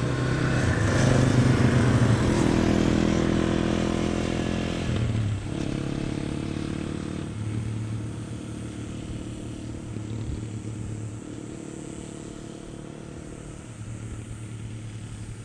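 Single-cylinder dual-sport motorcycle engines of a Yamaha XT250 and TW200 pulling away, loudest early on and growing fainter. The engine note breaks about five seconds in and again about seven seconds in.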